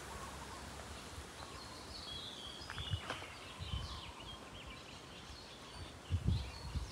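Birds chirping in the trees, short repeated calls over a steady outdoor hiss. A few low thumps sound near the end.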